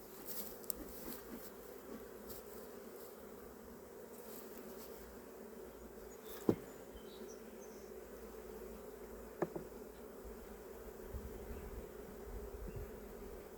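Honeybees buzzing steadily around an open hive, with two sharp knocks, one about six seconds in and another about three seconds later.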